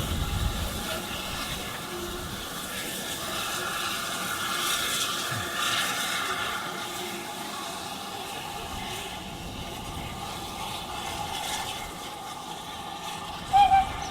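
A train running with a steady hiss and rumble, with faint steady tones above it. A short, loud high note sounds near the end.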